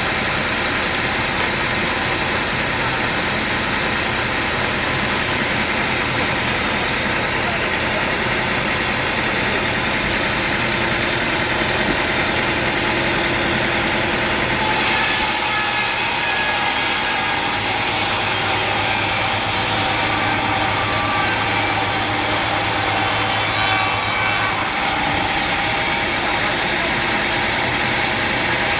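Sawmill machinery running steadily with an engine drone. For about ten seconds in the middle a brighter hiss and a low hum join it, then drop away.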